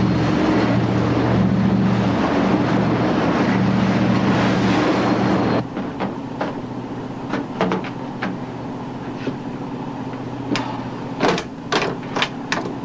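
Steady engine drone with a rushing noise of a boat under way, cutting off abruptly about five and a half seconds in to a quieter engine hum. Over the quieter hum come a series of sharp clicks and knocks.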